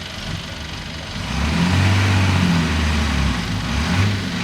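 Bulldozer's diesel engine running, getting louder and working harder about a second in as it pushes under load, with a rough hiss over the low engine note.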